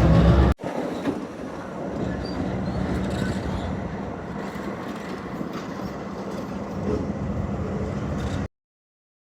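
Train running on the rails: a steady rumble with a few faint clicks, after a short loud low rumble that breaks off half a second in. The sound stops dead near the end.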